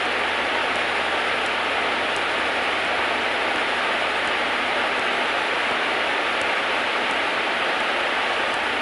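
Cessna 152's four-cylinder Lycoming engine and propeller running at taxi power, a steady, even rush of noise in the cockpit with a faint constant whine.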